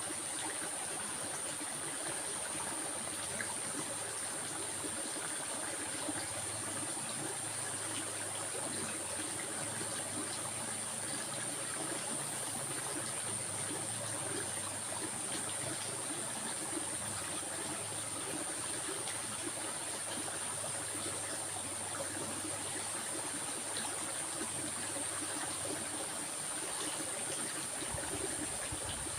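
Stream water flowing and trickling steadily, with a constant high-pitched tone running over it.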